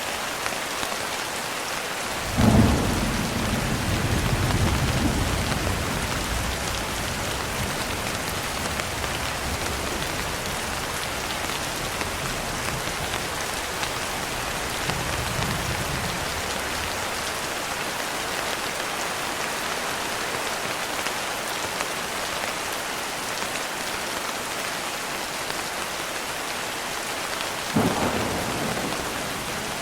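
Steady rain with thunder: a sharp thunderclap about two and a half seconds in, followed by a low rumble lasting a few seconds, a fainter rumble midway, and another clap near the end.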